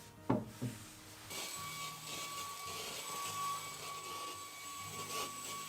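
Two clicks, then a small high-speed electric motor switches on about a second in and runs steadily with a high whine.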